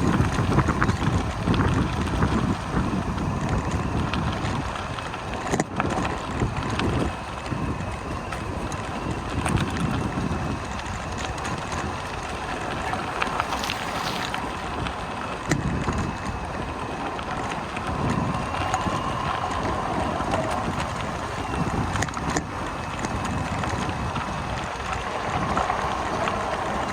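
Wind buffeting the microphone of a camera on a moving bicycle, with the rumble and rattle of the ride, in uneven gusts and a few sharp clicks.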